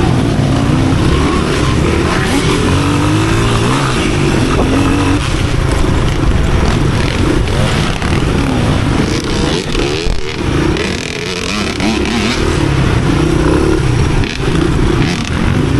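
Off-road motorcycle engines running and revving, rising and falling in pitch, with more than one engine heard at once.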